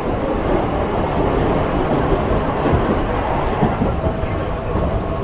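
A train in motion, heard from on board: a steady rumble of the wheels running along the track.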